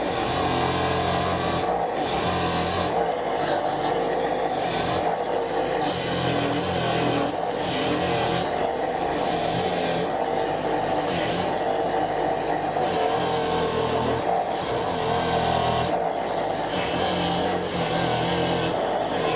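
Angle grinder running steadily while grinding or cutting, the sound of the load shifting every second or two.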